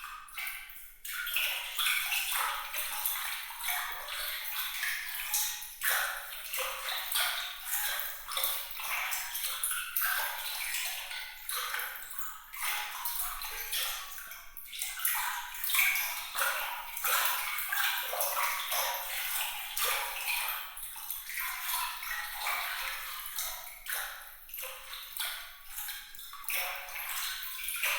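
Water trickling and splashing, a bright, sparkling sound full of small drips and pings. It rises and falls in small swells with nothing deep or low in it.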